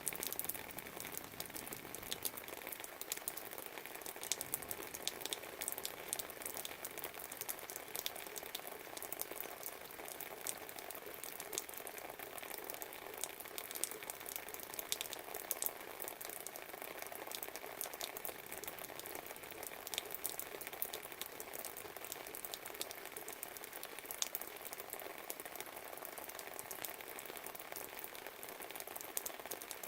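Steady rain falling, with many close drops ticking sharply over an even hiss.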